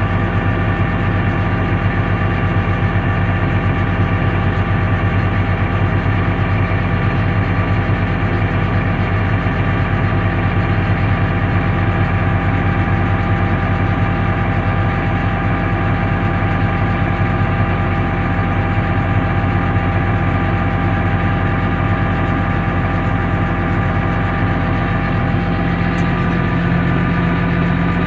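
International Harvester 686 tractor's 310 diesel engine running steadily under load, powering a forage chopper chopping green feed.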